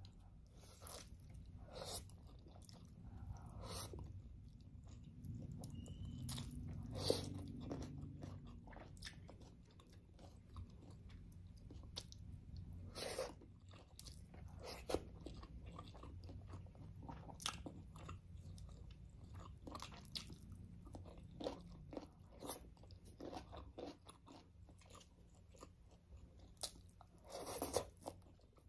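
Close-up chewing and mouth sounds of someone eating rice and paksiw fish (moonfish stewed in vinegar) by hand: irregular sharp mouth clicks and smacks, a few of them louder, over a low steady hum.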